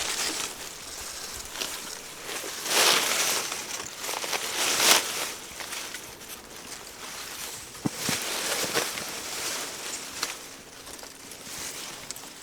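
Rustling, loudest twice in the first five seconds, then a few light knocks and clicks.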